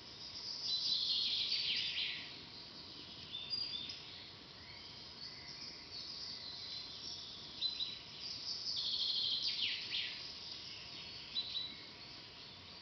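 Songbirds singing in a forest: two long songs of rapid, falling trilled notes, one starting about a second in and another around eight seconds in, with short chirps in between over a steady faint background hiss.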